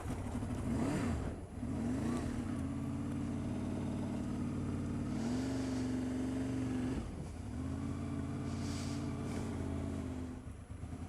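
Motorcycle engine catching after a bump start on a flat battery, then revved and held at raised revs. The pitch rises twice in the first couple of seconds, holds steady, rises again about halfway, dips briefly, and then picks up again.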